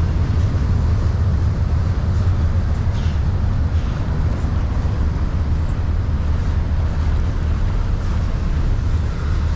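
Wind buffeting the microphone in a steady, gusting low rumble, over the even rush of river water.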